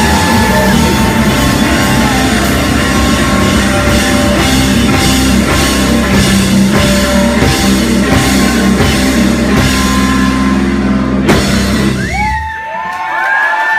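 Live heavy rock band playing distorted electric guitar, bass and drums. The song ends on a final hit about eleven seconds in, and the crowd starts cheering.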